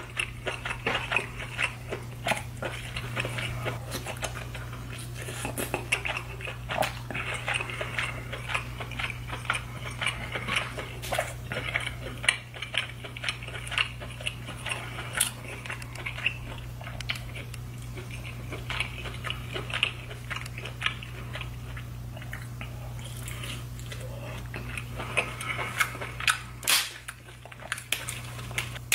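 Close-miked wet chewing and lip-smacking as king crab leg meat in sauce is bitten and eaten, with many small irregular clicks over a steady low hum. A louder snap comes near the end.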